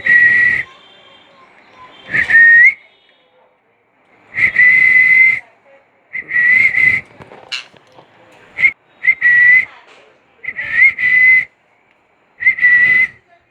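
A run of about eight short whistles on much the same high note, each half a second to a second long, some opening with a quick upward slide, with short pauses between them.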